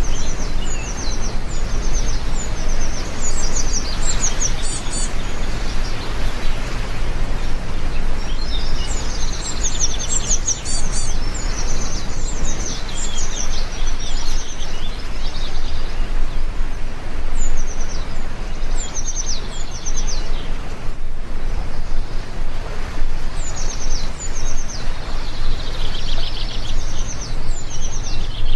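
Heavy rain falling with a steady, even hiss, with birds chirping in repeated high-pitched trills over it.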